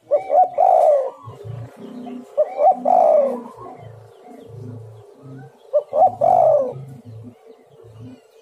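Spotted doves (tekukur) cooing: three loud call phrases about three seconds apart, with softer low coos between them.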